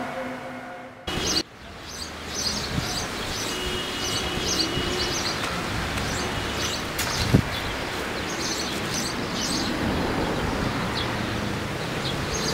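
Small birds chirping over a steady outdoor hiss. There is a short loud burst of noise about a second in.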